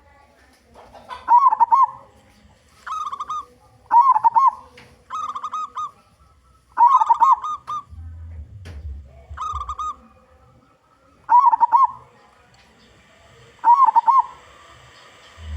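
Local zebra dove (perkutut) cooing loudly, about nine short warbling phrases with gaps of one to two seconds between them.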